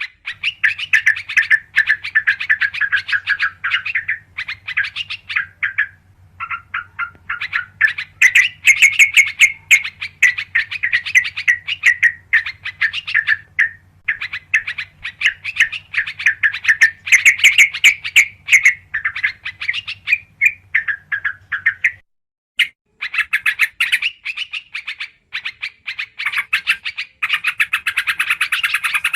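Trucukan (yellow-vented bulbul) song: fast, bubbling chattering phrases repeated with short pauses, played as a bird-trapping lure call. A faint steady low hum lies underneath and cuts off about 22 seconds in.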